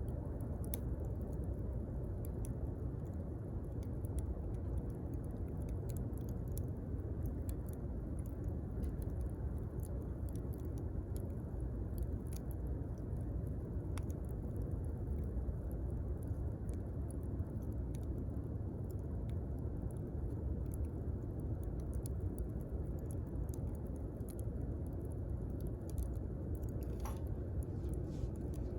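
Wood campfire burning, with irregular sharp crackles and pops over a steady low rumble. Near the end a short whistle slides downward in pitch.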